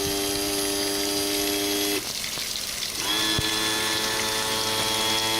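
Electric power trim and tilt pump on a Mercury Optimax 175 outboard, whining steadily for about two seconds as it moves the motor, stopping, then running again for about two and a half seconds at a slightly lower pitch as the motor is moved back the other way.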